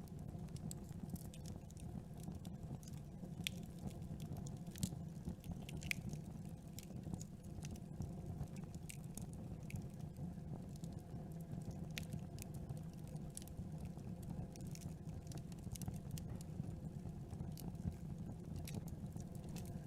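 Campfire burning: a steady low rumble from the flames with irregular sharp crackles and pops from the burning wood.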